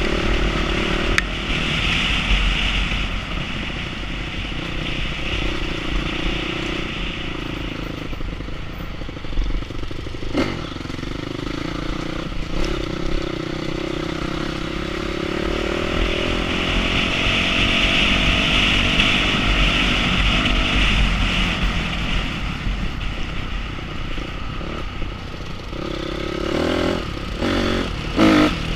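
Enduro motorcycle engine running, its pitch rising and falling as the throttle opens and closes, over a steady low rumble. There is a sharp knock about ten seconds in and a brief rattling clatter near the end.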